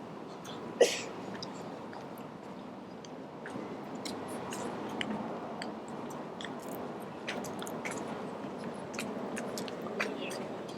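A person eating a burger: chewing, with many small clicks throughout and a sudden sharp sound about a second in, over a steady hush of outdoor background noise.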